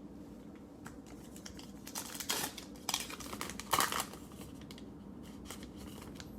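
Trading cards and their plastic packaging being handled, with a few short crinkling rustles about two to four seconds in, the loudest near the end of them, and small clicks of cards sliding.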